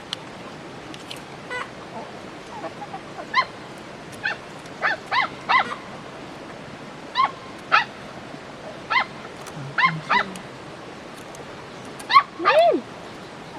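Short, high-pitched animal calls, about a dozen scattered yips, with a longer call that falls in pitch near the end, over a steady background hiss.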